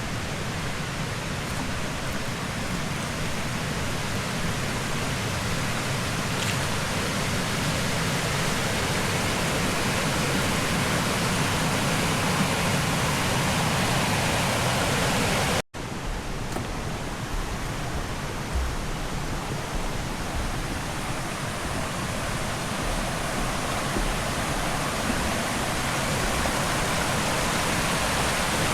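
Steady rush of running stream water, with a momentary dropout about halfway through where the recording cuts.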